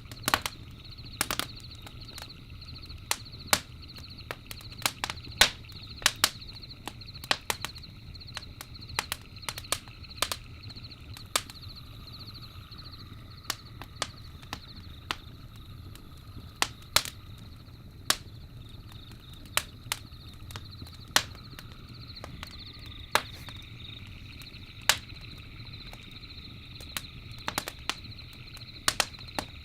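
Campfire crackling: irregular sharp pops and snaps of burning wood over a low steady rumble. A steady high trilling runs in the background.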